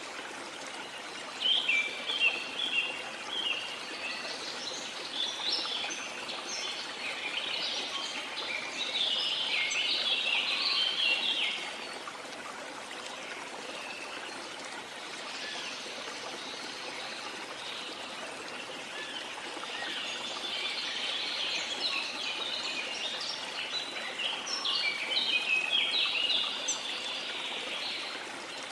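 Many birds chirping and singing over the steady rush of a waterfall. The bird song comes in two busy spells, quieter for several seconds between them.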